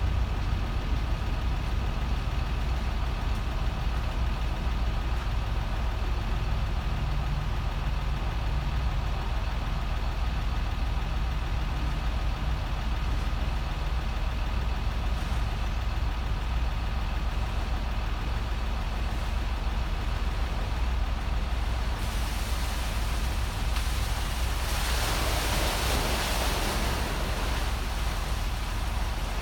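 Ram 4500's 6.7-litre Cummins diesel engine idling steadily. About two-thirds of the way through, a rushing hiss joins it, strongest near the end.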